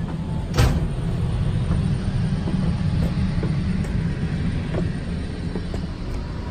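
Steady low rumble inside a Metrolink bilevel passenger coach as the train runs, with one sharp thump about half a second in and a few faint clicks.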